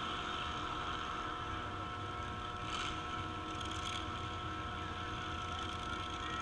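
Demolition derby trucks' engines running with a steady low rumble, mixed with wind on the microphone.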